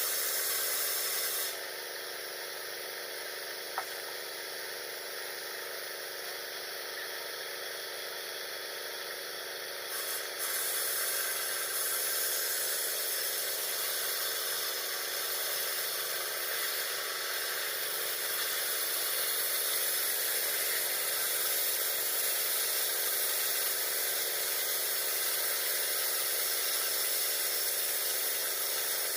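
Power saw of a small portable sawmill running steadily while ripping a 2x6 plank into 2x2 strips. Its level drops about a second and a half in and rises again about ten seconds in.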